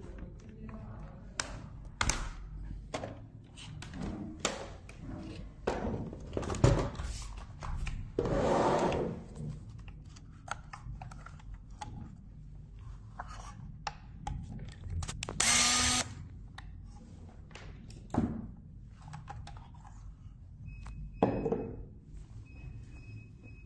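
Plastic parts and hand tools handled while a robot vacuum's brush and motor assembly is taken apart: irregular clicks, knocks and taps. There are two short rasping or whirring bursts, one about eight seconds in and one about fifteen seconds in.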